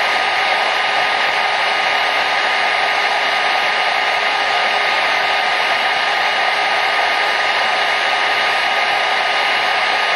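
Hair dryer running steadily: an even, unchanging airy rush with a faint steady whine from its motor and fan.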